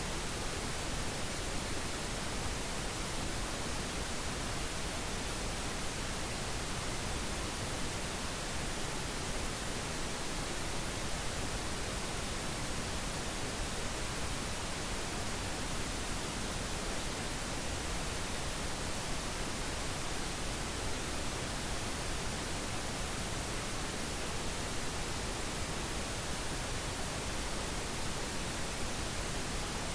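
Steady, synthetic pink noise: an even, unchanging hiss spread across the whole range from deep to high, with no events or changes.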